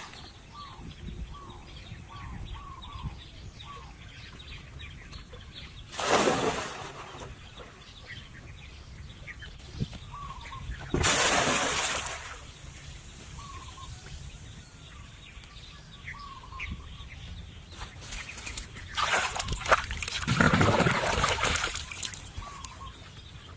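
Small birds chirping repeatedly, with three louder bursts of noise about six, eleven and twenty seconds in, the last lasting a few seconds.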